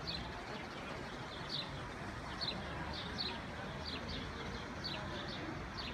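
A small bird chirping repeatedly: about ten short, high chirps, roughly one every half second, over a steady rushing background.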